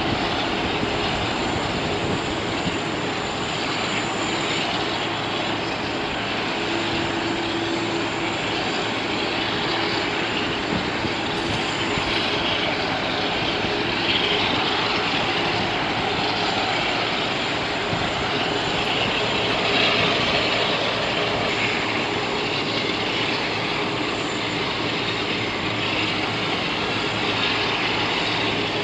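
Airbus A380's four jet engines running steadily with a continuous rushing noise and a faint high whine, at a level that stays even throughout.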